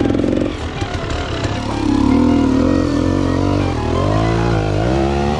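Dirt bike engine revving up and down under the rider's throttle, its pitch rising and falling several times in quick succession.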